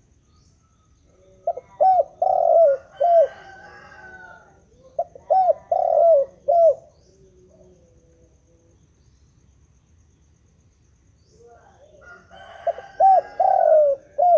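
Spotted dove cooing: three phrases of several short coo notes each, spaced a few seconds apart.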